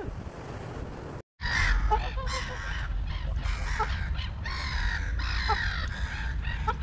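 A flock of birds giving many harsh, overlapping calls, starting after a brief cut to silence about a second in.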